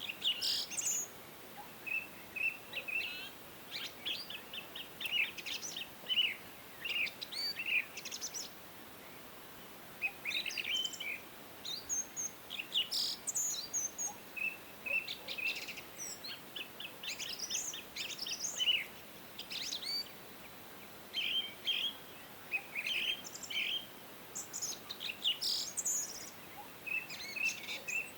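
Several songbirds chirping and trilling in short, high-pitched phrases with brief pauses between them, over a faint steady hiss.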